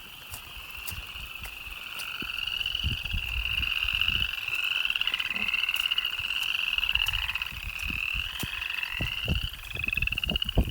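A chorus of frogs trilling, several callers overlapping into a continuous high rapid trill that swells in the middle, with irregular low thumps underneath.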